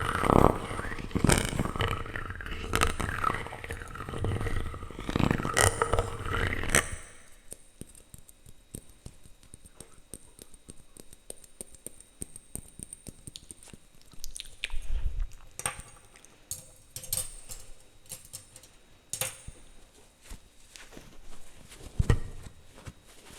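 Plastic utensils scraping, rubbing and tapping on a microphone: a dense run of scrapes and clicks for about the first seven seconds, then sparser, quieter taps and clicks with one louder knock near the end.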